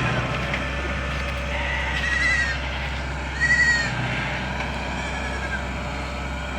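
An animal calls twice, in two short high-pitched cries about a second and a half apart, over a steady low hum.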